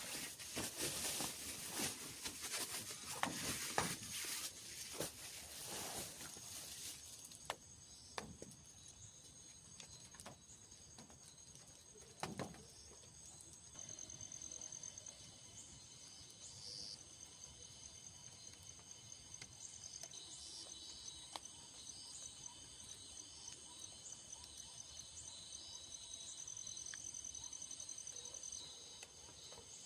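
Rain pattering and dripping with sharp taps for about the first seven seconds, then it stops abruptly. After that, insects chirp and trill steadily in high-pitched pulsing runs, with a few scattered drips.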